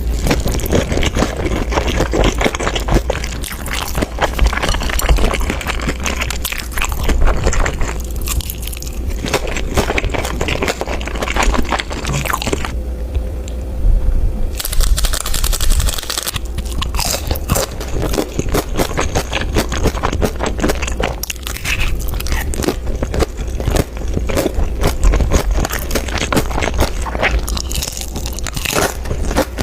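A person eating close to the microphone: continuous crunching bites and chewing, with a brief let-up about halfway through.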